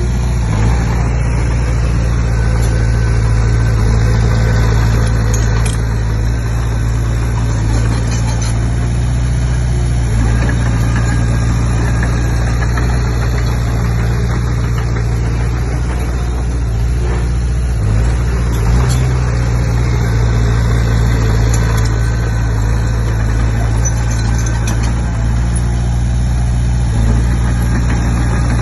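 Komatsu D20P bulldozer's diesel engine running steadily with a deep, even drone.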